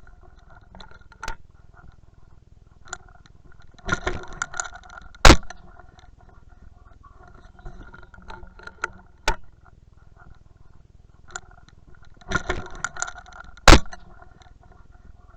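Two shotgun shots about eight seconds apart, each coming about a second after a short burst of rustling.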